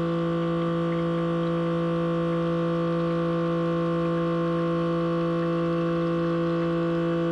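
Keurig K-Mini single-serve coffee maker brewing: its water pump gives a steady, even hum as it draws water from the reservoir through the K-cup.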